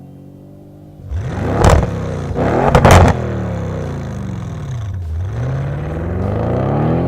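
Audi RS7's twin-turbo V8 through a Milltek stainless cat-back exhaust, revving hard about a second in, with two loud peaks. The revs then drop and climb again.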